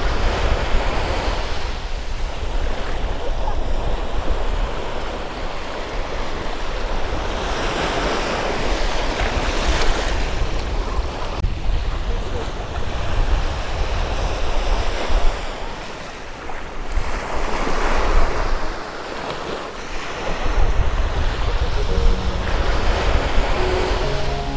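Sea waves washing in and out, with wind buffeting the microphone as a low rumble. A few faint musical notes come in near the end.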